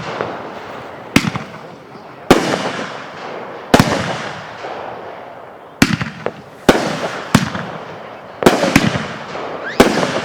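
Consumer fireworks going off in quick succession: about nine sharp bursts, irregularly spaced and roughly a second apart, each followed by a fading echo.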